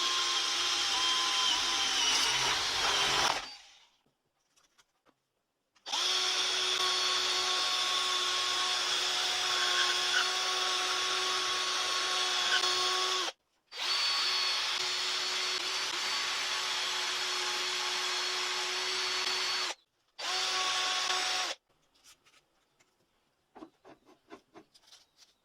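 A small electric power tool motor running at a steady whine in four runs, stopping briefly between them: about three seconds, a long run of about seven seconds, another of about six seconds, then a short one. A few faint clicks follow near the end.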